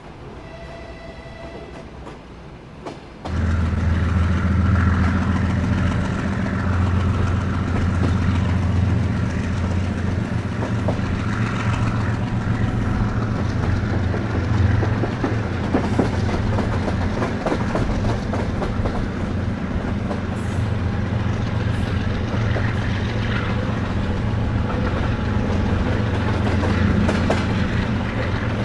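Soviet-built sleeper train running on the rails: a loud, steady low rumble and drone with scattered wheel-on-rail clicks. It comes in abruptly about three seconds in, after a quieter stretch carrying a faint held tone.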